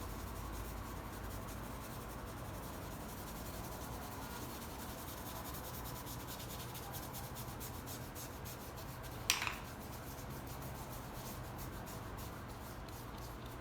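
Paintbrush brushing and scrubbing paint onto the painting: a faint, steady rubbing made of many quick strokes, with one sharper scrape about nine seconds in.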